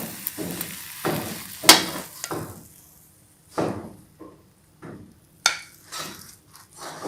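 A cooking utensil scraping and knocking against a frying pan and plate as the crisp-fried rice paper with egg is lifted out, over oil sizzling that fades away in the first few seconds; then a few scattered knocks and scrapes.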